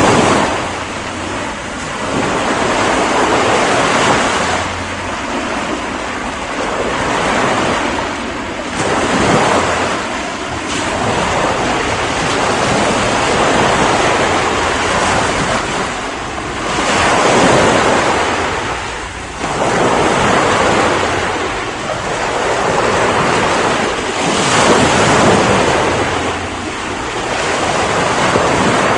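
Ocean waves breaking and washing on a shore, a continuous surf hiss that swells with each wave every few seconds.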